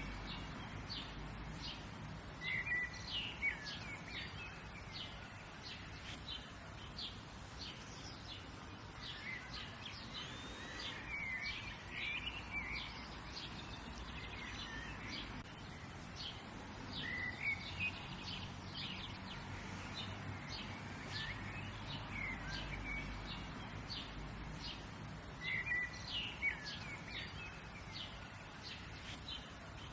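Birds chirping and singing: many short, high calls following one another throughout, a few louder ones standing out, over a steady low background noise.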